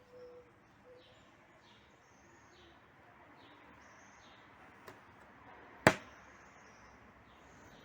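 A bird chirping repeatedly in the background, short high downward notes less than a second apart. A single sharp click about six seconds in.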